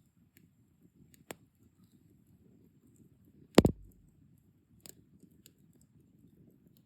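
Wood campfire burning, a low steady rush of flame with sparse crackles: a small pop about a second in, a loud sharp pop a little past halfway, and a smaller pop soon after.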